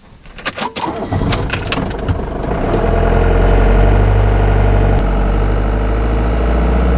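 Motorhome's 1995 Fiat Ducato 2.5 TDI diesel engine being started: a few clicks of the key, then the engine cranks, catches about a second in and settles into steady running.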